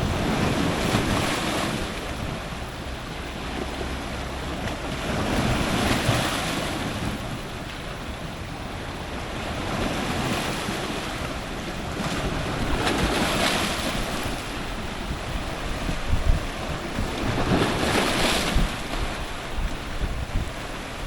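Powerful ocean surf breaking on rocks: a steady rushing wash that surges several times, each wave rising to a loud crash and hiss and then draining away, with a few sharp low thumps near the end.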